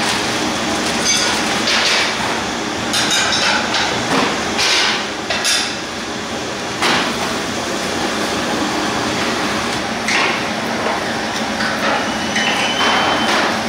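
Irregular knocks and clatter, a handful of sharp hits several seconds apart, over a steady background noise.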